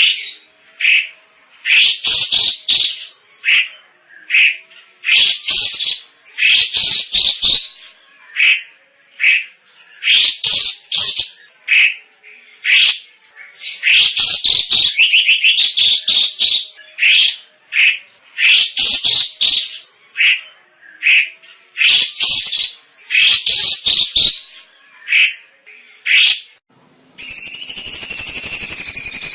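Cucak cungkok singing in loud, dense bursts of chirping calls, one burst every second or so with short gaps. Near the end the bird stops and a steady jingling sound with several layered tones takes over.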